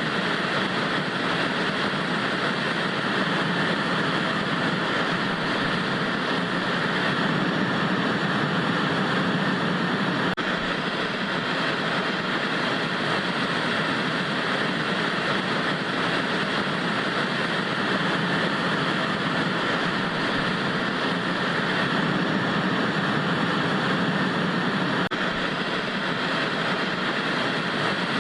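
Vintage analog TV static: a steady, even hiss, as from a dead channel, with no change in level throughout.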